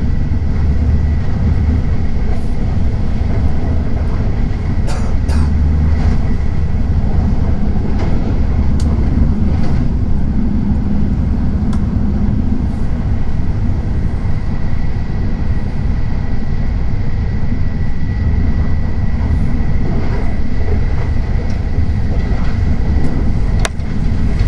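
Tokaido Shinkansen train running, a steady heavy rumble with a thin high steady whine over it and a few sharp clicks.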